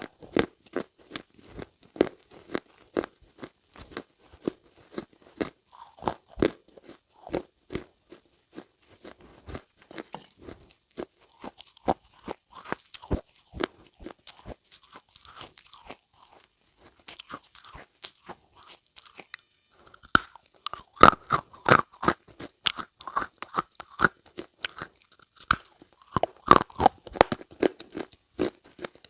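Repeated short crunching clicks at an irregular pace, a few per second, growing denser and louder in two clusters in the second half.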